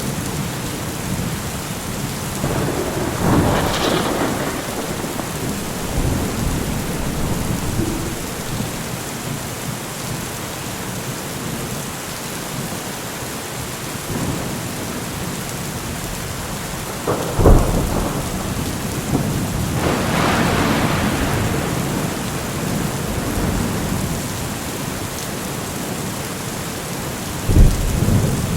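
Thunderstorm: steady heavy rain with thunder rolling several times, two long rumbles and two sharper, louder cracks, one a little past halfway and one near the end.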